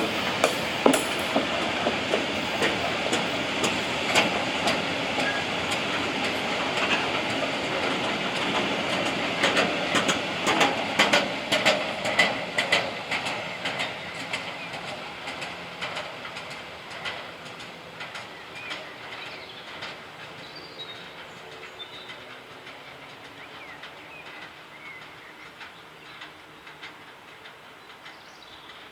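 A train passing on the line, its wheels clattering over the rail joints, with a dense run of clacks about ten seconds in. The rumble then fades away as the train moves off.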